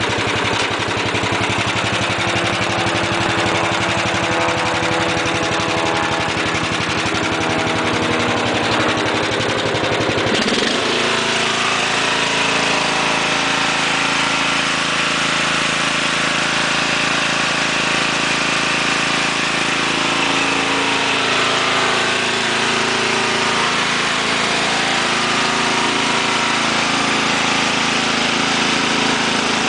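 Murray 17 HP lawn tractor engine running steadily. About ten seconds in its pitch rises to a higher engine speed, where it holds.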